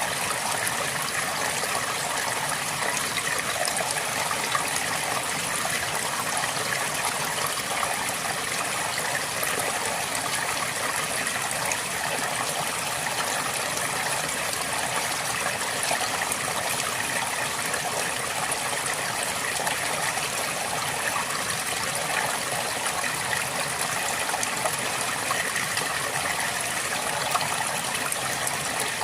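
A river flowing steadily over rocks, a continuous rush and babble of water.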